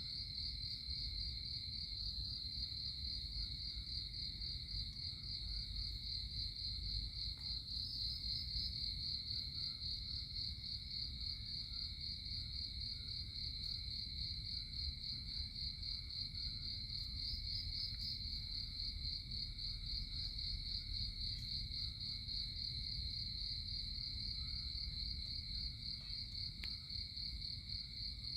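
A continuous, high-pitched chorus of chirring insects with a fine rapid pulse, and a second, lower insect drone running steadily beneath it, over a low rumble.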